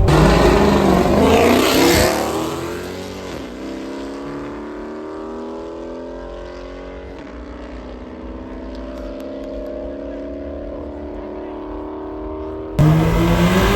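Car engine at hard throttle close by, then pulling away down the road, its note climbing steadily as it fades into the distance. About a second before the end, a sudden cut to another loud engine close by.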